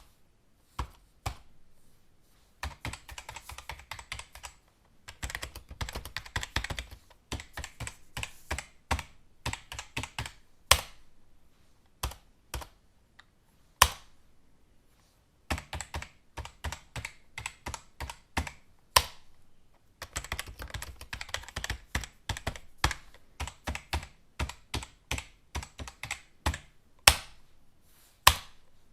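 Computer keyboard typing: runs of rapid key clicks broken by short pauses, with now and then a single louder key strike.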